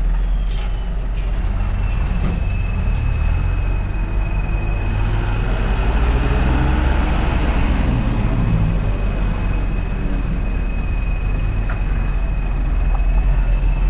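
Wind buffeting a helmet-mounted action camera on a moving bicycle, a heavy steady rumble, with a thin steady high squeal running through most of it. A motor vehicle passes about halfway through, swelling and fading over a few seconds.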